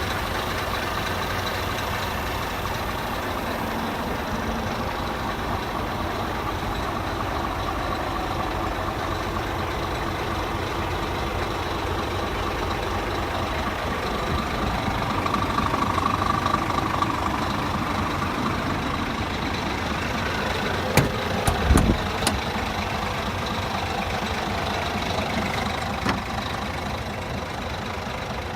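Scania G360 truck's diesel engine idling steadily. It grows a little louder around the middle, and a few sharp knocks come about two-thirds of the way through.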